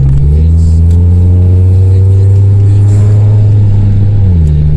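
Honda CR-V four-cylinder engine and exhaust revved up, held at a steady higher rpm for about four seconds, then let fall back near the end.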